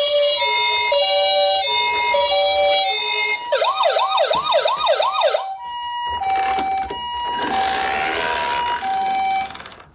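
Electronic sirens of toy ambulance minicars: overlapping two-tone hi-lo sirens, then a fast up-and-down sweeping yelp siren for about two seconds, then a slower two-tone hi-lo siren. The sirens cut off abruptly shortly before the end.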